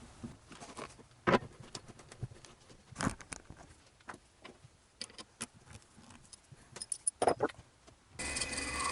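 Scattered clicks and knocks of the workpiece and chuck being handled and set at a wood lathe. About eight seconds in the lathe starts and runs with a steady hum and a whine.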